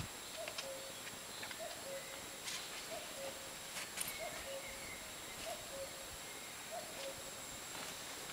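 A bird repeating a low two-note call, a short higher note then a slightly lower one, about once a second, with a few faint ticks and taps alongside.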